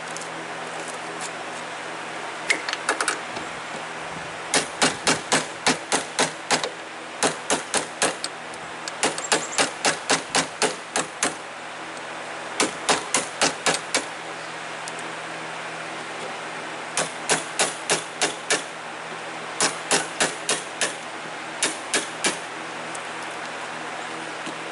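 Wood chisel being struck with a hammer, chopping a groove in white oak: runs of quick sharp blows, about five a second, broken by short pauses.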